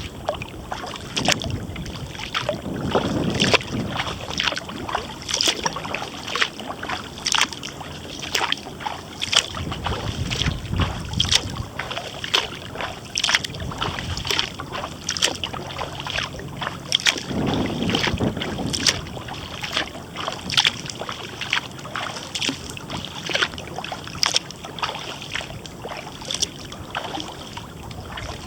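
Kayak paddle dipping and splashing, with water dripping and trickling off the blades in a steady run of small splashes, about one or two a second. A low wind rumble on the microphone swells a few times.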